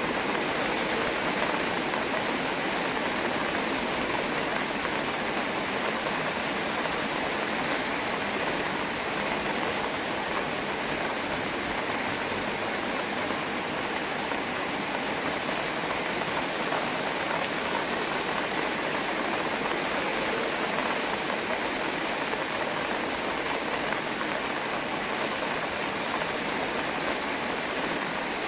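Steady rain falling, an even, unbroken hiss of drops with little low rumble, recorded on a phone microphone.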